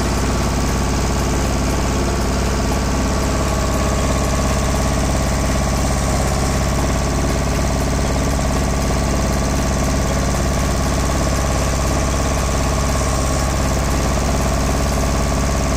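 Mahindra Jivo 245 DI mini tractor's two-cylinder diesel engine idling steadily.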